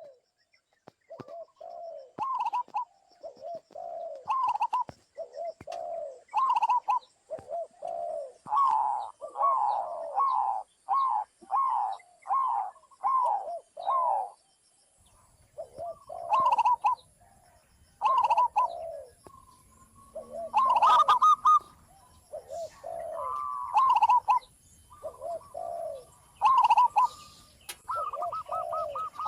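Wild zebra doves (perkutut) and spotted doves (tekukur) cooing, several birds calling over one another in runs of short, repeated coos. From about halfway a faint low rumble and a thin high steady tone sit underneath.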